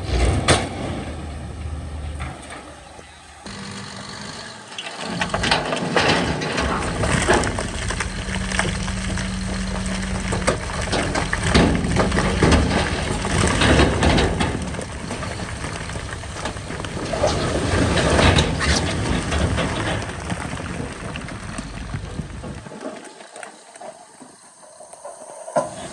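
Heavy earthmoving machinery working: diesel engines running, with frequent clanks and rattles. The sound changes abruptly a few times.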